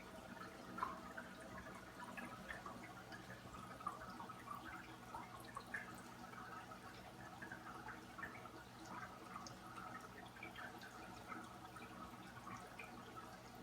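Small paludarium waterfall trickling and dripping, with many faint, irregular little splashes over a low steady hum.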